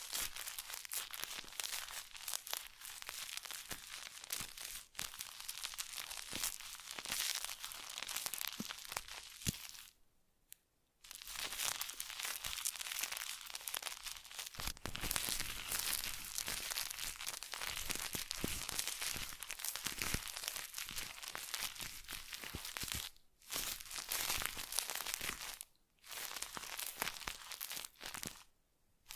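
Close-miked crinkling and crackling of material being handled and rubbed, as in ASMR tactile sounds. It runs continuously, with a silent break about ten seconds in and a few short pauses near the end.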